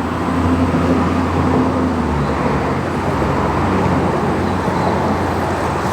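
Steady hum of a motor vehicle's engine with road noise, holding for several seconds.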